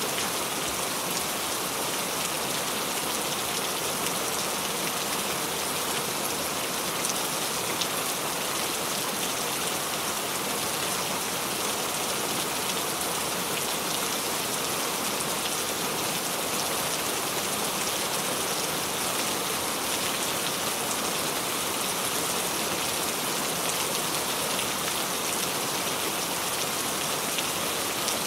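Steady rain sound effect: an even hiss of rainfall with fine drop patter, unchanging throughout.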